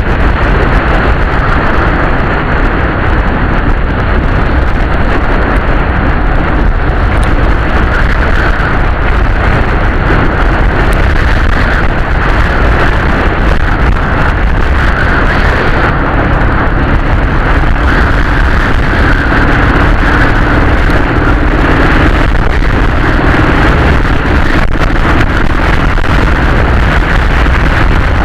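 Dnepr motorcycle's flat-twin engine running steadily while riding, with wind noise on the microphone.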